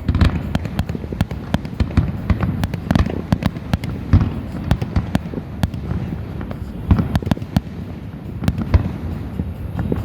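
Fireworks going off in rapid succession: many irregular bangs and cracks, several a second, over a steady low rumble of further bursts.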